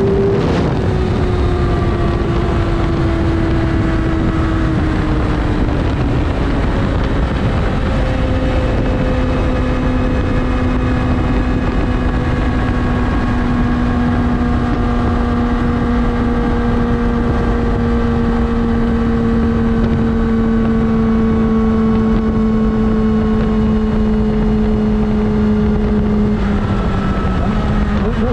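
Yamaha R6's inline-four engine running at highway speed, its note stepping down about half a second in and again around six seconds in, then holding and slowly falling, with a brief dip and rise near the end. Heavy wind rush on the microphone underneath.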